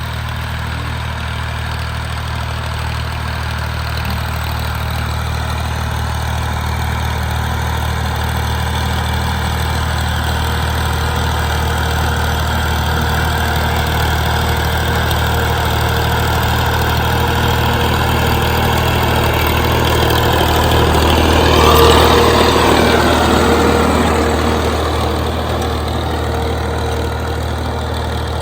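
Tractor engine running steadily, growing louder to a peak about three-quarters of the way through, then easing off.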